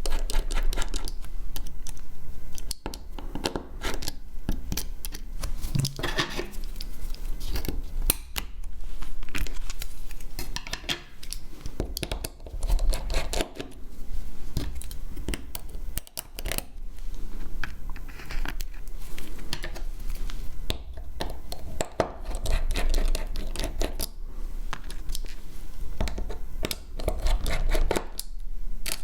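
Small hand tools scraping, clicking and tapping against a smartphone during close repair work, with irregular sharp clicks and scratchy stretches and a low handling rumble.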